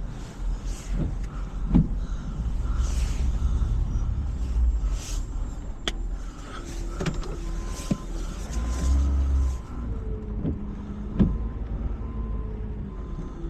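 Tow truck engine running steadily, with scattered knocks and clicks. A faint beep repeats about once a second in the second half.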